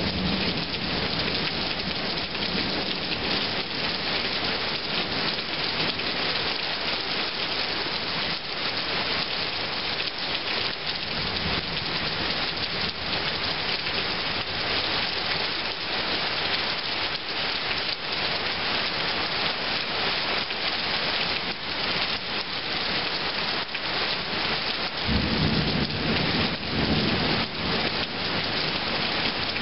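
Heavy rain pouring down steadily in a thunderstorm. Near the end, a low rumble of thunder rolls in under the rain.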